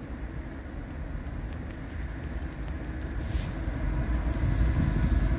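Diesel locomotives at the head of an empty coal train rumbling as the train approaches, growing steadily louder. There is a brief hiss about three seconds in.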